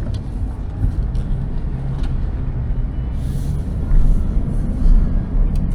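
Steady low rumble of a car running, with no speech over it.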